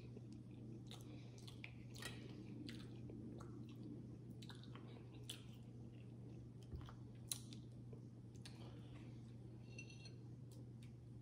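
Faint, close-miked chewing of seafood boil, with many small wet mouth clicks scattered through, over a steady low hum.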